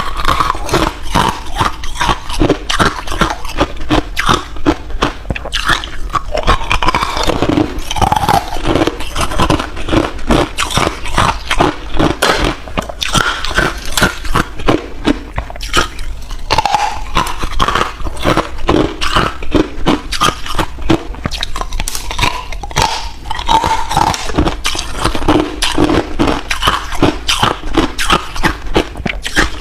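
Ice being bitten and chewed: a dense, unbroken run of sharp crunches and crackles.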